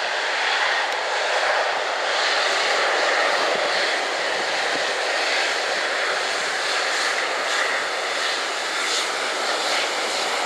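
Boeing 777-300ER's two GE90-115B turbofan engines running, a steady rushing jet noise.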